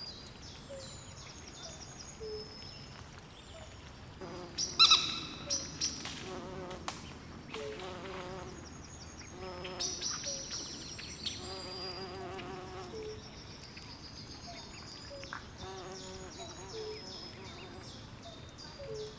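Night swamp chorus: frogs calling in short repeated trills, with high, fast chirps over them throughout. A louder call stands out about five seconds in.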